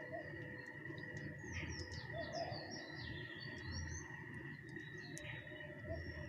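Small birds chirping, with a quick cluster of short sliding chirps in the middle, over a steady high-pitched drone.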